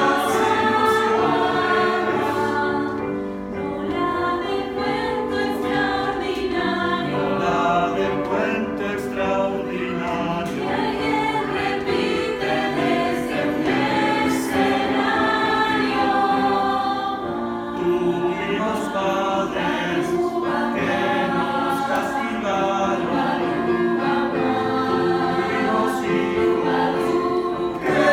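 Youth choir singing together in a concert performance.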